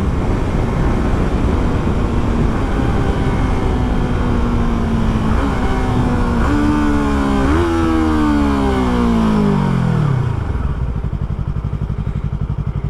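Motorcycle engine heard over heavy wind rush on the helmet microphone: it holds a steady note, then blips up three times in quick succession as the rider downshifts, and the pitch falls smoothly as the bike slows. Near the end it settles to a steady, low, pulsing idle.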